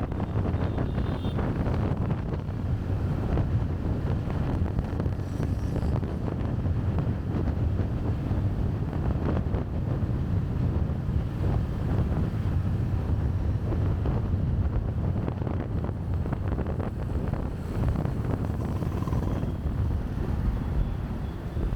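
Wind buffeting a chest-mounted camera's microphone while riding a motorcycle in traffic: a steady, heavy low rumble, with the bike and traffic running underneath.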